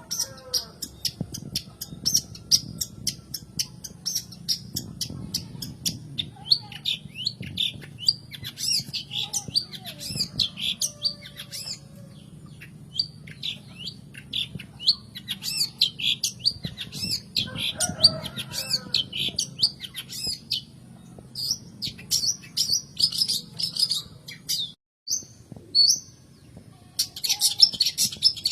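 Long-tailed shrike (cendet) singing: rapid runs of short, scratchy, high chattering notes, with a steady low hum underneath. The sound cuts out briefly about 25 seconds in.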